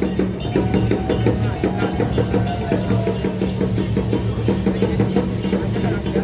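Percussion music with a fast, steady beat of drum and wood-block strikes, over a steady low hum.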